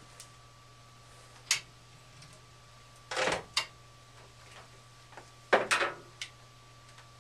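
Scattered clicks, knocks and short rattles of metal parts and tools being handled inside a gas furnace cabinet, in three or four separate bursts, over a steady low hum.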